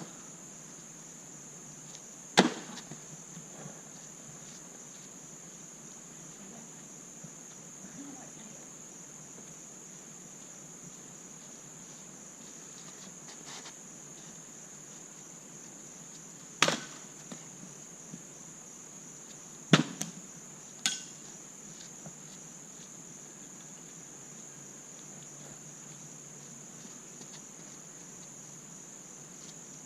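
Steady high-pitched insect chorus, with sharp knocks of thrown hatchets striking the target: one about two seconds in, one a little past halfway, two close together about two-thirds through, and one at the very end.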